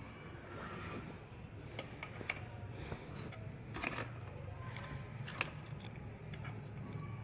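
Light clicks and small handling noises from the plastic parts of a car navigation display unit being worked apart by hand, over a steady low hum.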